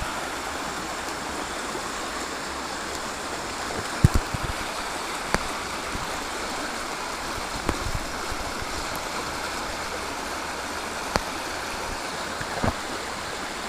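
Flowing river water making a steady rush, with a few sharp knocks now and then, the loudest about four seconds in.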